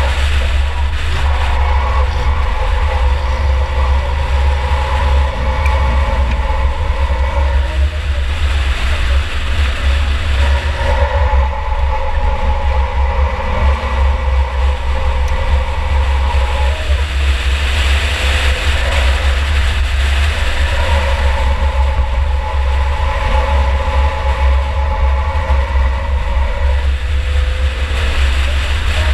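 2004 Chevy Impala enduro car running on the track, with a heavy, constant low rumble. A higher engine note swells in three stretches of several seconds each, as the car pulls harder.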